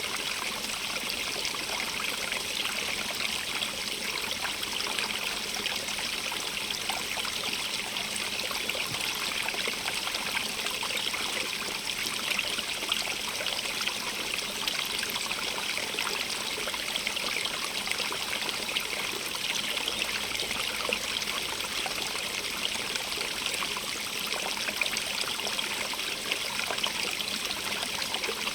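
Running water, a steady even rush of a stream flowing, flecked with many tiny splashes.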